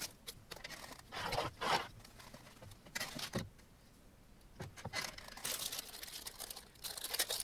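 Irregular rustling and crinkling of plastic parts bags, with scraping and a few light knocks as small printer-kit hardware is handled.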